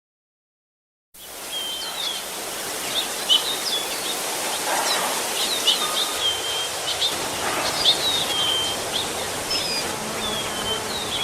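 Countryside ambience sound effect: a steady hiss of breeze with small birds chirping and calling throughout. It starts abruptly about a second in after total silence.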